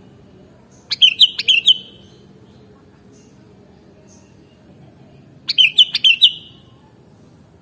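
Sooty-headed bulbul (kutilang) singing: two short phrases of several quick notes each, about four and a half seconds apart.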